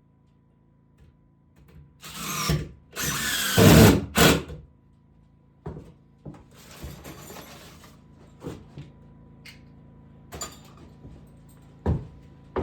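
Power drill running in a few short bursts, the longest and loudest about two seconds in. Scattered knocks and clicks follow.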